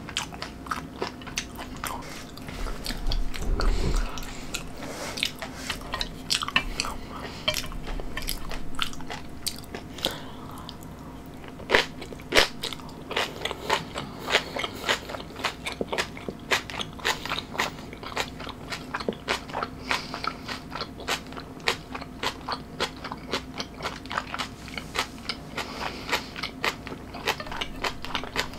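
A person chewing food close to the microphone, with a steady run of crisp, wet crunches.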